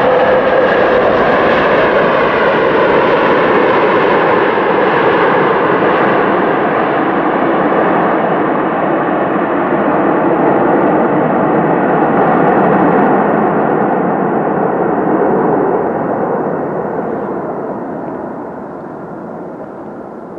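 Jet airliner engine noise, loud and rushing, with a held whine near the start. It fades over the last few seconds as the plane moves away.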